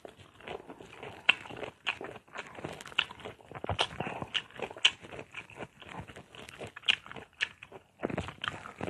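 Close-up crunching and chewing of unripe mango slices dipped in bagoong: irregular crisp bites and wet chewing crackles, a few sharper crunches standing out.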